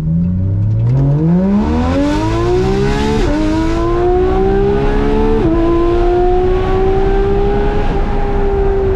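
Porsche 991.2 GT3 RS flat-six with headers and a straight-through 'crack pipe' exhaust, heard from inside the cabin, accelerating hard with its pitch climbing. There are quick upshifts about three and five and a half seconds in, and the engine then settles into a steady, slowly easing note.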